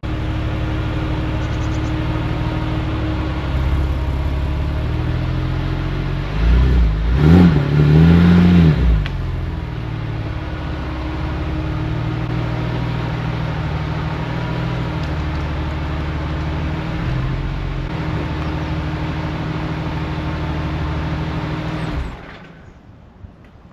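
Porsche 911 997.1's flat-six engine running steadily, with a brief rev about seven seconds in before settling back. The sound cuts off abruptly near the end.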